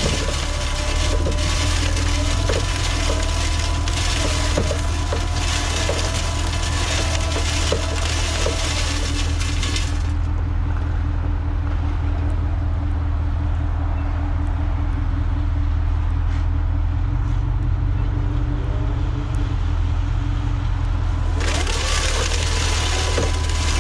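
Plow truck's engine running steadily with a constant deep hum, a wavering whine over it for roughly the first ten seconds.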